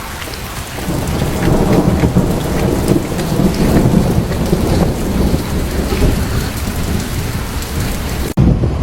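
Heavy rain pelting down: a loud, dense hiss of many small drop impacts over a deep rumble. It breaks off abruptly near the end.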